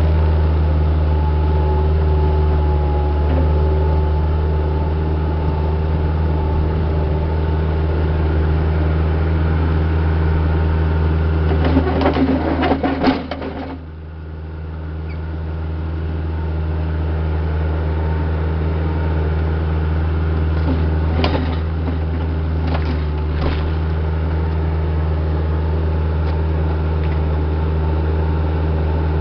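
Heavy equipment's diesel engine running steadily under work. About twelve seconds in there is a burst of knocks and clatter, then the engine note drops briefly and builds back up, with a few more knocks later on.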